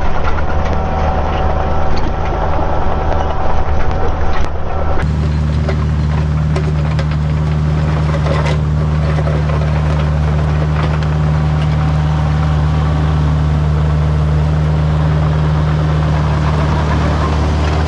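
Diesel engine of a Kubota machine running steadily under work. About five seconds in, the hum becomes steadier and evener.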